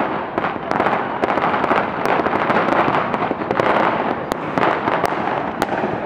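Dense barrage of fireworks and firecrackers going off, a continuous rapid crackling and popping with a few sharper cracks in the second half.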